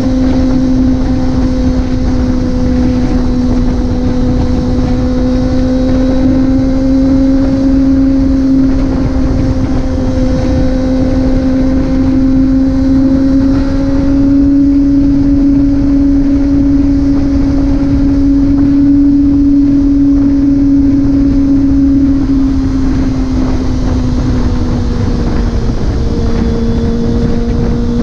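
Motorcycle engine cruising at steady speed, a constant drone whose pitch drifts slightly up and down and eases down a little near the end, over a low rush of wind noise.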